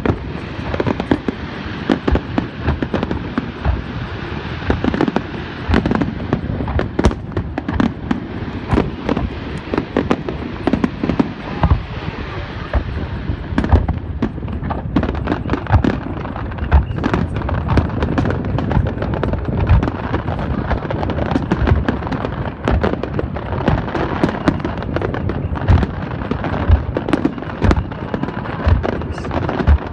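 Aerial fireworks display going off without pause: a dense run of booming shell bursts over a constant crackle of sparks.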